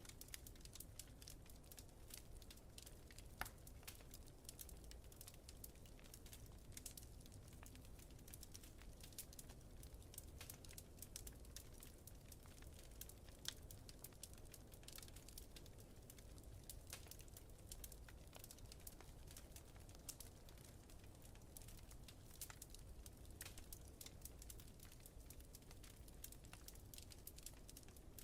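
Faint crackling of a wood fire in a fireplace: irregular small pops and snaps, two sharper ones about three and a half and thirteen and a half seconds in, over a low steady rumble.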